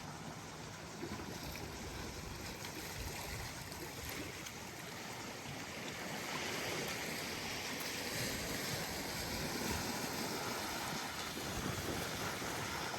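Small waves washing up onto a sandy beach, swelling louder about six seconds in, with a light breeze rumbling on the microphone.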